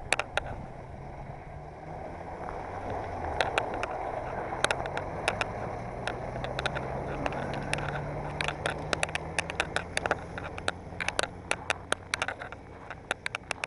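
Mini truck driving in extreme cold: the engine hums, rising in pitch and then easing off, with road noise swelling in the middle. Many sharp clicks and rattles, more frequent in the second half.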